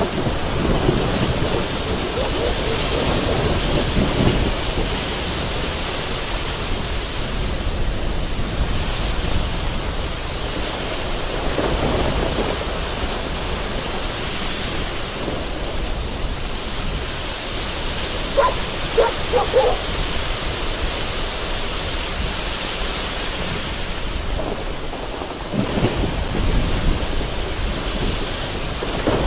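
Heavy rain falling steadily, with rolling thunder rumbling low underneath that swells near the start, about midway and again near the end. A few short faint tones sound just past the middle.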